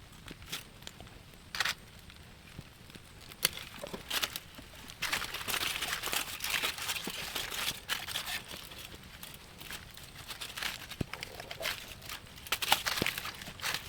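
Rustling and crinkling handling noise with scattered sharp clicks and knocks, in two longer busy stretches, one in the middle and one near the end.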